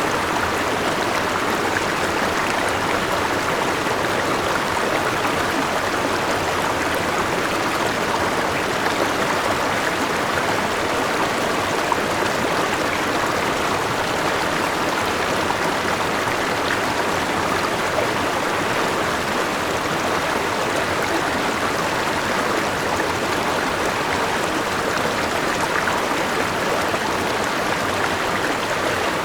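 River water rushing and splashing over a small waterfall, a steady, even rush with faint drip-like ticks here and there.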